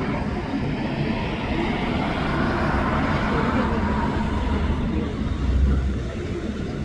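Jet airliner engine noise from a nearby takeoff or landing: a steady rushing sound with a deep rumble that swells briefly about five and a half seconds in.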